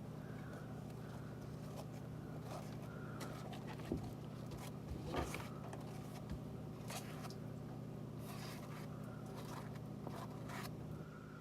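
Faint handling noises, with scattered scrapes, rustles and small knocks as slime and a container are worked by hand, the sharpest knock about four seconds in. A steady low hum runs underneath.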